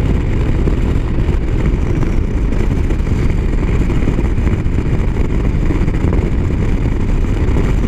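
Motorcycle riding at highway speed: a steady low rumble of wind on the microphone mixed with the running engine.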